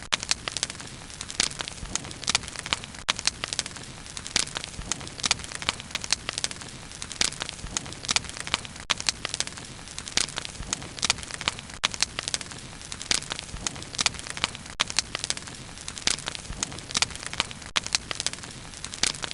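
Campfire of burning wood crackling, with frequent irregular sharp pops and snaps over a steady hiss of flames.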